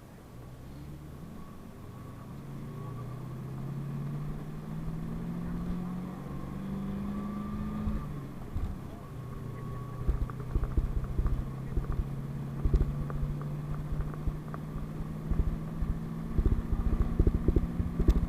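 A PAZ-32054 bus's V8 petrol engine pulling away, its pitch rising for about eight seconds, then dropping at a gear change. It then runs steadily under a run of knocks and rattles that starts about halfway through.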